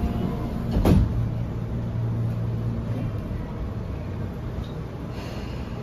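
Interior sound of a Tobu 9000 series commuter train car: a steady low hum over even background noise, with one loud knock about a second in. The hum weakens after about three seconds.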